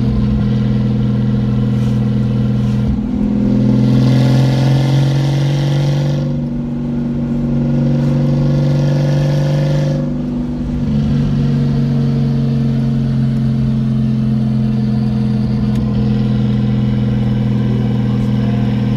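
Car engine running steadily under way. About three seconds in its pitch climbs as the car accelerates, and it eases off briefly around six and ten seconds before settling back to a steady note.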